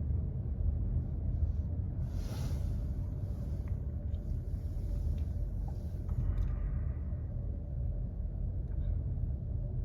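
Freight train rolling past, a steady low rumble, with a brief hiss from about two to six seconds in.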